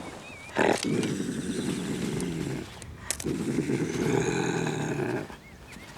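A trapped wild Iberian lynx growling twice, each growl about two seconds long, the first opening with a sudden sharp burst.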